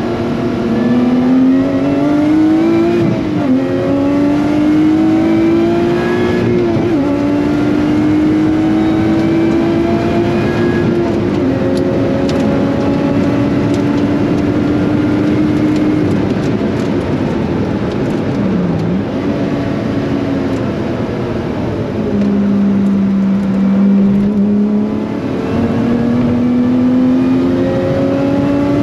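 Lotus Exige 430 Cup's supercharged 3.5-litre V6 being driven hard on track: engine pitch climbs and drops sharply at quick upshifts about 3 and 6.5 seconds in, holds high revs for several seconds, falls back lower a little past the middle and climbs again near the end.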